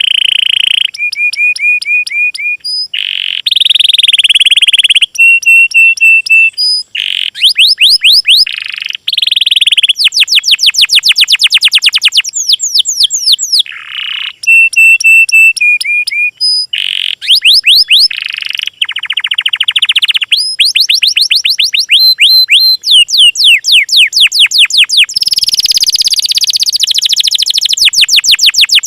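Small songbirds singing: fast trills and runs of rapidly repeated high, sweeping notes, broken into short phrases that switch abruptly every second or two, as in a spliced bird-song tutor (masteran) recording.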